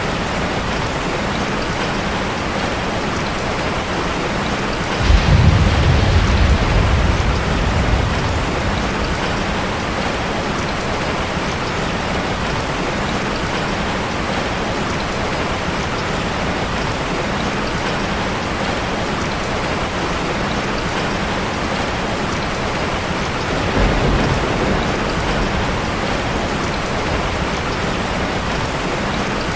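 Heavy rain falling steadily, with a deep rumble of thunder that starts suddenly about five seconds in and dies away over a few seconds, and a weaker rumble near the end.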